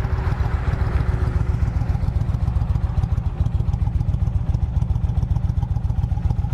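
2008 Kawasaki Vulcan 1600 Classic's liquid-cooled, fuel-injected V-twin idling with a steady, even low pulse. It runs smoothly, with no abnormal engine noises.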